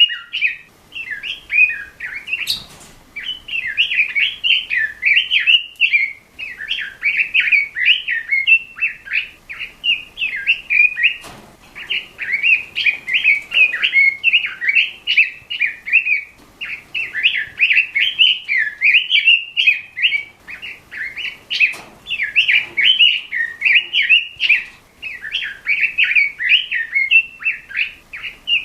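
Red-billed leiothrix (Pekin robin) singing a loud, fast warbling song in long run-on phrases with brief pauses. A few sharp clicks cut in, several seconds apart.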